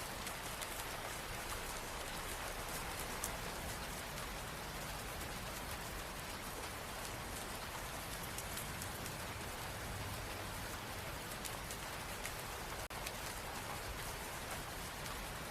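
Steady rain falling, an even hiss with scattered drops pattering. There is a split-second dropout about thirteen seconds in.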